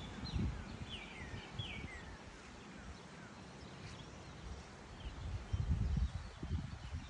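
A flock of small birds chattering, with quick downward-sliding chirps that are busiest in the first two seconds and thin out afterwards. Low rumbling bursts come at the start and again near the end.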